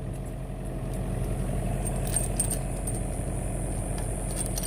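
An engine idling steadily, with a few light metallic clinks and jingles of lifting chain being handled about two seconds in and again near the end.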